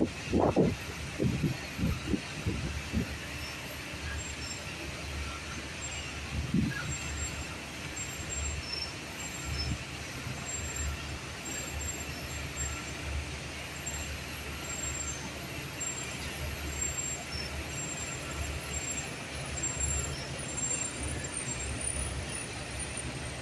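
Komatsu D85SS crawler bulldozer's diesel engine running steadily with a low rumble, with a few short knocks in the first three seconds.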